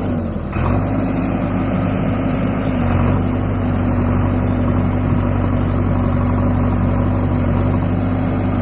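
Tractor diesel engine running steadily, with a brief dip in pitch and level about half a second in.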